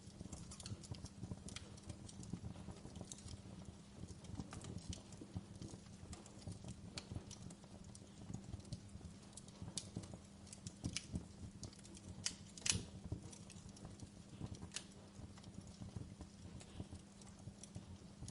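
Wood fire burning in a fireplace, crackling with frequent irregular sharp pops over a low, steady rumble; the loudest pop comes about two-thirds of the way through.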